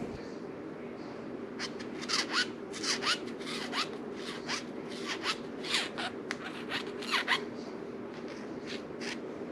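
Hand grease gun being refilled with grease: a series of short scraping, squelching strokes, about one or two a second, over a steady low hum.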